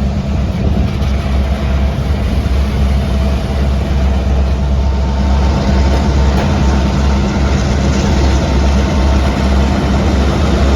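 Diesel locomotive running loudly with a steady low drone.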